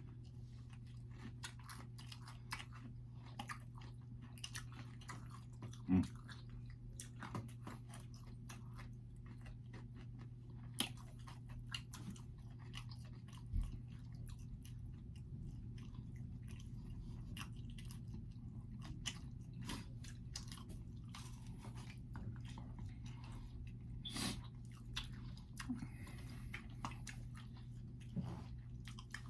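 Close-up chewing and biting of pizza, with a crunch from the crust and many small wet clicks, over a steady low hum.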